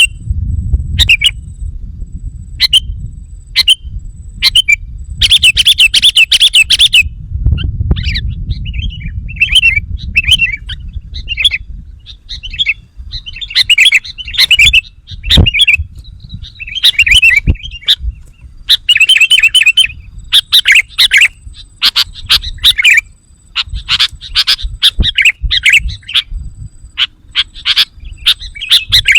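Sooty-headed bulbul (kutilang) singing vigorously: quick runs of short, bubbly chirps, one burst after another with brief pauses, a few runs lasting a second or two. This is the lively song used as a lure call for wild bulbuls.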